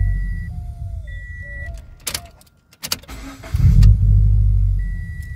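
Scion FR-S engine running with two surges, each swelling quickly and then falling away over a couple of seconds, nearly going quiet briefly between them. Short high electronic beeps repeat, and two sharp clicks come about two and three seconds in. The engine is a freshly installed replacement in its first minutes of running, still unsettled.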